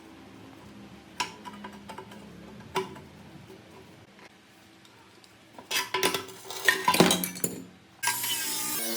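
Metal parts clinking and knocking together: a couple of light single knocks, then a quick run of loud ringing clinks. About 8 s in, a power tool starts up with a steady whine.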